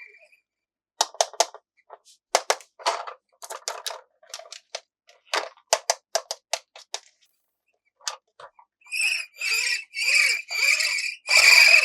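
Toy and packaging handling: a run of sharp clicks and taps, then about five short squeaky bursts, each about half a second long, near the end.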